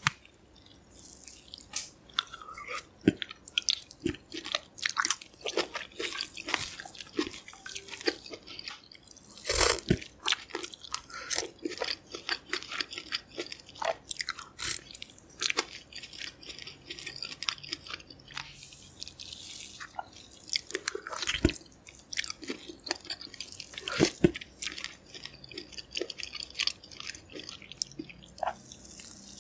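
Close-miked mukbang eating sounds: wet chewing and biting of green mussels in thick sauce, with many short sharp clicks and crunches.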